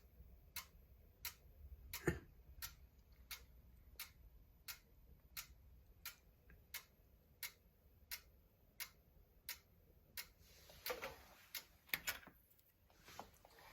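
An electronic device in sleep mode giving off sharp, regular clicks, about three every two seconds, an unexplained fault. After about ten seconds, a few louder, irregular rustling sounds and clicks come in.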